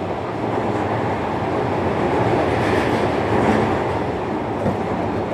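Running noise heard aboard a JR Kyushu 305 series electric train's motor car under way: steady wheel-on-rail rumble with some rail-joint clatter, swelling a little about halfway through.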